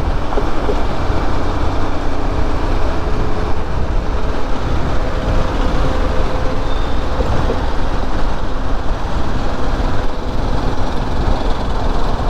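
Steady road noise of a motorbike ride, with heavy wind rumble on the microphone and a faint engine hum.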